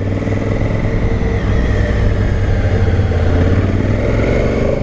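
Honda Africa Twin CRF1000L's parallel-twin engine running steadily under way, with a loud low rumble of wind and road noise.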